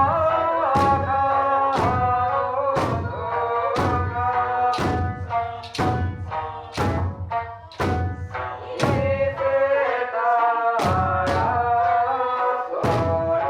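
Okinawan eisa music: taiko drums struck in unison about once a second over a sung melody.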